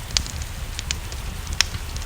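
Wood fire crackling: a handful of sharp, irregular pops, the loudest about one and a half seconds in, over a steady low rumble and soft hiss.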